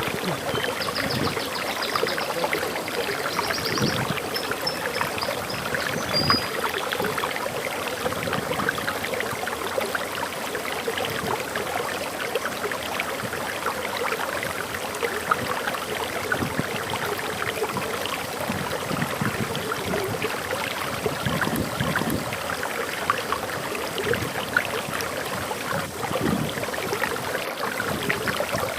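Forest waterfall flowing steadily, with splashing and gurgling water. A bird sings short high chirps during the first several seconds.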